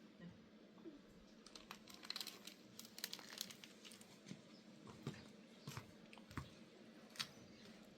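Faint, irregular clicks and crinkles of small objects being handled.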